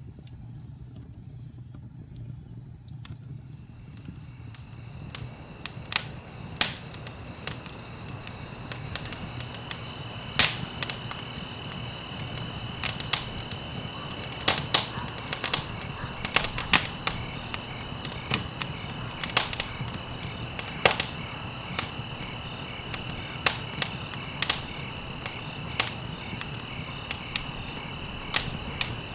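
Wood fire crackling: irregular sharp pops and snaps over a low, steady rumble of flames, the pops starting a few seconds in and coming more often after that. A steady high-pitched trill runs underneath.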